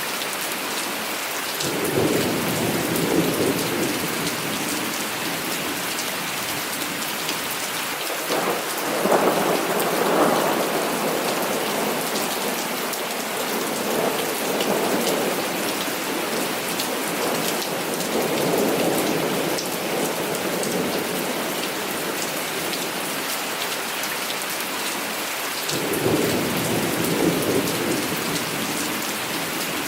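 Heavy rain falling steadily, with thunder rumbling again and again over it: about five rolls that swell and fade, the strongest around 9 to 10 seconds in.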